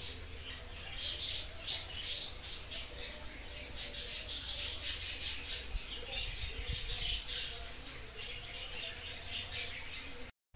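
Birds chirping and squawking, a busy run of short, high calls that is thickest about four to seven seconds in and thins out near the end.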